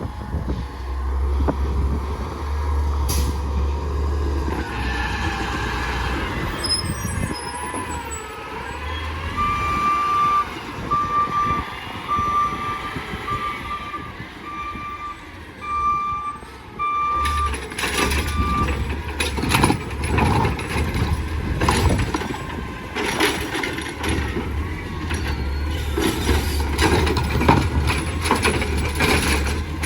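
Garbage truck's diesel engine running with a hiss of air brakes, then its backup alarm beeping about once a second for about nine seconds, followed by a stretch of sharp clanks and knocks.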